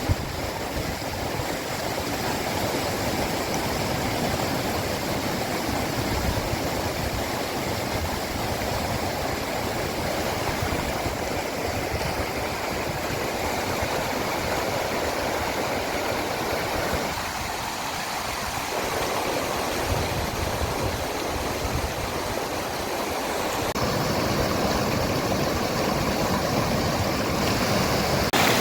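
Steady rush of flowing water, like a waterfall or fast hill stream, with its tone changing abruptly a few times.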